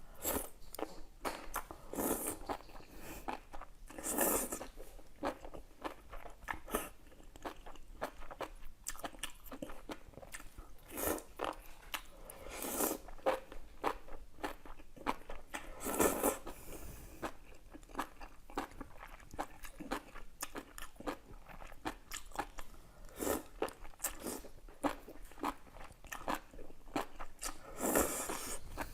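A person biting and chewing crunchy raw food close to the microphone. Louder crunches come every few seconds, with quick wet chewing clicks in between.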